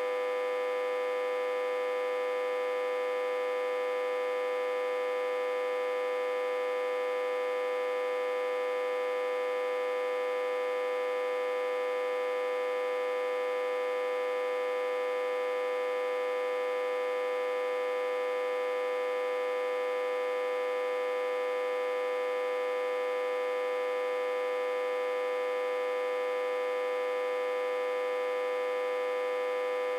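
Autotransformer humming steadily: a buzzy, unchanging tone with many overtones. It is driven backwards into a step-down transformer at about 60–80 V.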